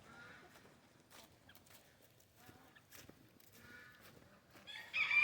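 Faint, scattered poultry calls, then near the end a rooster starts crowing loudly, one long held call.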